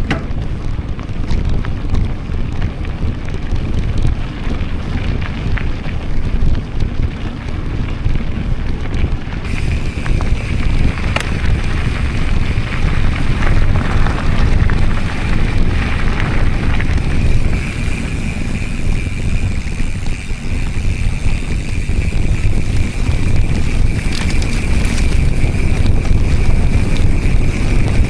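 Wind buffeting the microphone and trail rumble while riding a Giant Trance X mountain bike. About ten seconds in, a steady high-pitched whine joins and carries on to the end.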